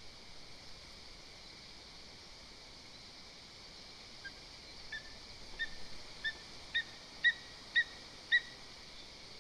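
Lesser spotted eagle giving a series of short, sharp yelping calls, about two a second and growing louder, over steady hiss from the nest camera's microphone.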